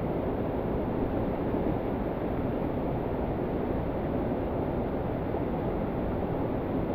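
Steady rushing roar of falling water from a mountain waterfall, constant and even with no separate splashes or knocks.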